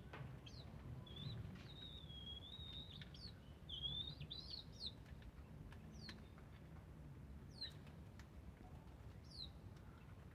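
A small bird chirping: short, high, sharp notes that drop in pitch, scattered throughout, with a warbled phrase about a second in and another near four seconds, over a faint low hum.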